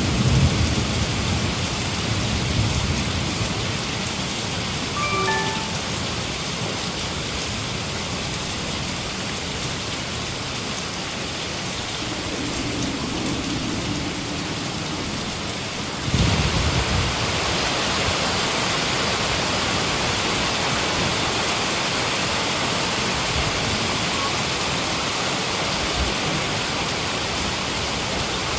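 Heavy rain falling steadily, with low thunder rumbling at the start. About halfway through the rain suddenly grows louder with another low rumble of thunder.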